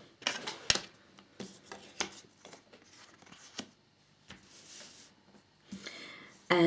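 Scattered light clicks, taps and rustles of small plastic model parts being handled and set down on a work surface.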